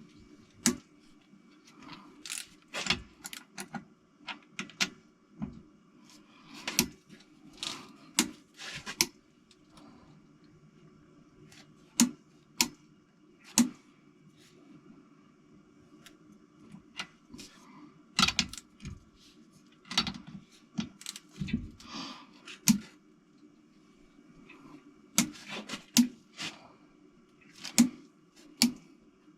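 Irregular metallic clicks and clinks of hand tools against engine parts, some in quick runs of two or three, over a steady low hum.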